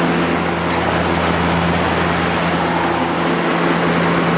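Kel Aire Model 7000 box fan with a three-speed McMillan motor running on high speed: a steady rush of moving air over a constant motor hum.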